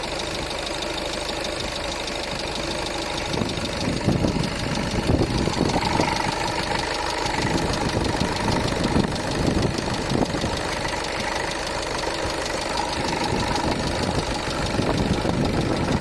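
Skoda Superb 3 1.6 diesel engine idling with a repeated tapping knock, which the owner takes for a knocking hydraulic lash adjuster (lifter). The knocking grows louder about three and a half seconds in.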